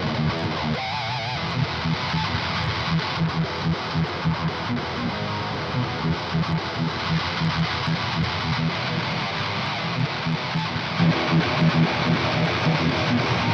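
Heavily distorted electric rhythm guitar through the Aurora DSP Laboga Chainsaw distortion plugin, an old-school death metal tone, playing a riff of rapid repeated low notes.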